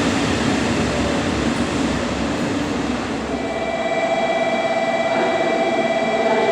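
Train noise at a railway station: a rushing rumble that eases off, then about three seconds in a steady high ringing tone of several pitches starts and carries on.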